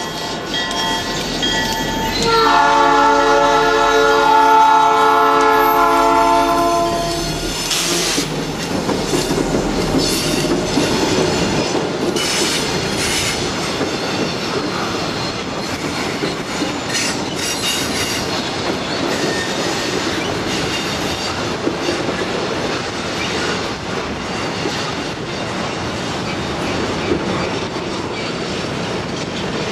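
Freight locomotive air horn sounding a chord: one blast ending about 2 seconds in, then a longer, louder blast to about 7 seconds. The train then rolls past with a steady rumble and wheels clattering over the rail joints.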